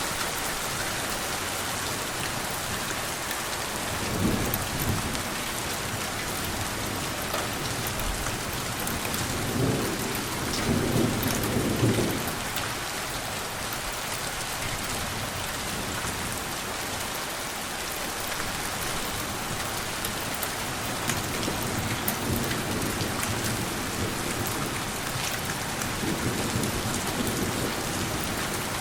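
Steady rain falling, with low rumbles of thunder swelling about four seconds in and again around ten to twelve seconds, and fainter rumbles near the end.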